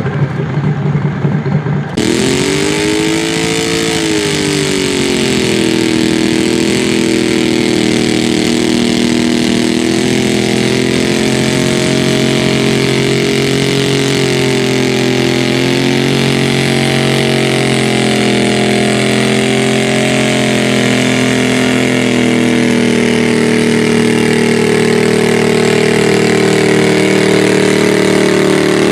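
Engine of a modified garden pulling tractor running hard at high revs. The sound changes abruptly about two seconds in; the pitch then dips and rises before holding nearly steady, wavering slightly under load.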